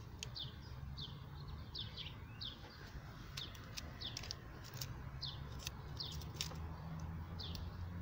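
Small birds chirping, short high falling chirps about once a second, over a steady low rumble, with a few faint clicks in the middle.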